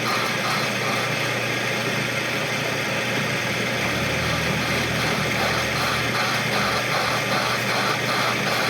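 A machine running steadily without a break, with a faint regular pulsing.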